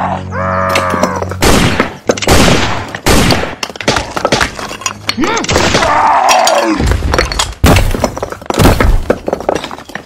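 Dubbed cartoon sound effects: a short voice-like groan, then a string of loud, irregular crashing and breaking impacts.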